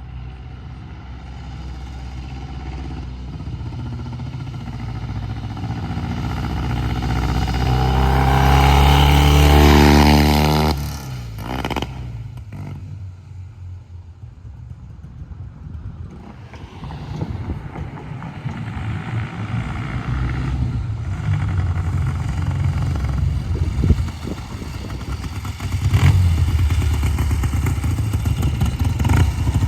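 1970 Triumph TR6C Trophy's 650 cc parallel-twin engine running on the road: it grows louder for about ten seconds, then drops sharply in pitch and level, stays quieter for a few seconds, and builds up again near the end.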